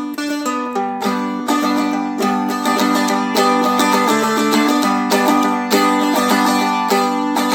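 Acoustic guitar with a capo high on the neck, played as the song's intro: a quick run of single picked notes, then picked chords in a steady rhythm from about a second in.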